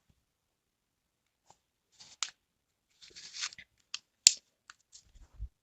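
Small plastic clicks and rustles from a bottle of chain oil being handled and its cap unscrewed, with one sharp click a little past the middle and a few soft low knocks near the end.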